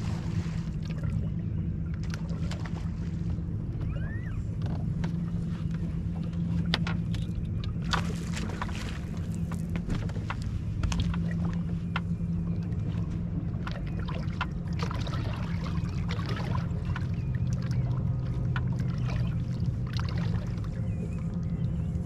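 Boat's outboard motor running steadily, with occasional sharp knocks.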